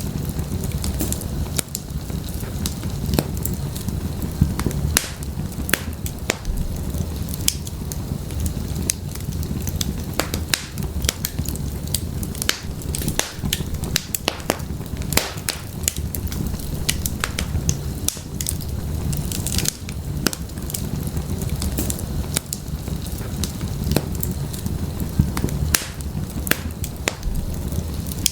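Wood fire burning in a fireplace, a steady low rumble of flames with many irregular sharp crackles and pops.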